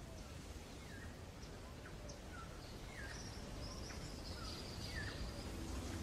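Small birds chirping: short falling chirps about once a second, with a longer high trill in the middle, over a low steady background rumble.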